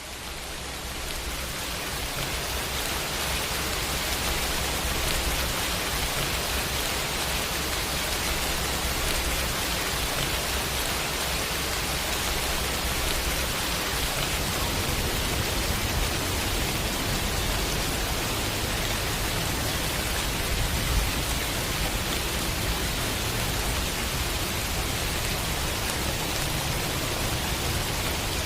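Heavy rain falling steadily, a dense, even hiss with a low rumble underneath. It fades in from silence over the first few seconds.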